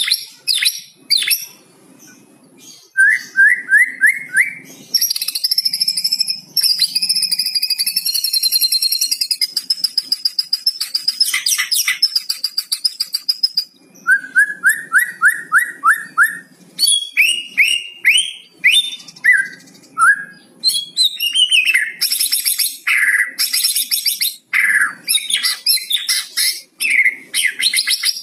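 White-rumped shama singing a loud, varied song: runs of quick upward-sweeping whistled notes, a long buzzy rattling trill (the 'kretekan' rattle), and sharp chirps and whistles in rapid succession.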